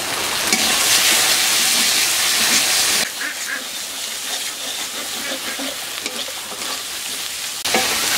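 Spice pastes (onion, garlic, cumin, chilli and ginger) sizzling in hot soybean oil in a karahi, stirred and scraped round the pan with a metal spatula. The sizzle is louder for about the first three seconds, then drops suddenly to a quieter hiss with soft scraping.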